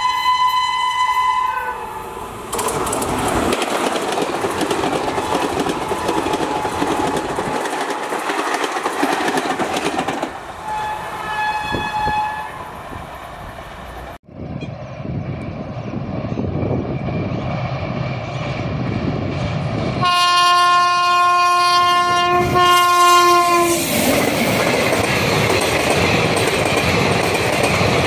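Two Indian Railways express trains. The first sounds its horn as it approaches, rumbles on and sounds a shorter horn about twelve seconds in. After a sudden cut about halfway, a second train's horn is held for about four seconds, and its passenger coaches then rattle past with rhythmic wheel clatter.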